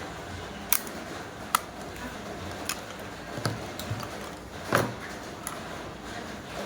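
Scattered sharp clicks and light knocks of a Sony Walkman WM-GX221 cassette player's plastic case being handled, one louder click about three-quarters of the way through.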